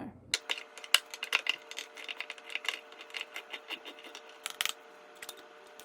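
Small metallic clicks and scrapes in quick, irregular strokes, as of kitchen utensils working on metal while tuna is prepared, over a faint steady hum.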